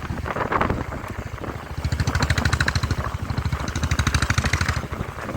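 Motorcycle engine running while riding, its firing heard as a fast, even low pulse. A lighter, faster ticking rides over it from about two to five seconds in.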